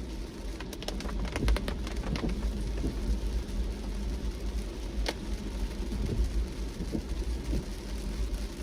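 Rain hitting a moving car, with a steady low road rumble underneath; a cluster of sharp drop hits comes in the first couple of seconds and another single hit about five seconds in.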